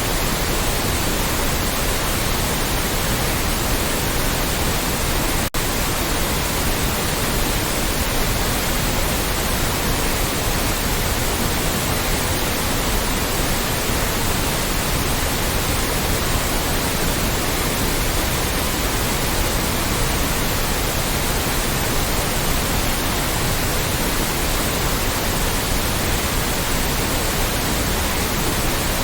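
Loud, steady synthetic white noise, an even hiss across the whole range with no tones or rhythm. It drops out for an instant about five and a half seconds in.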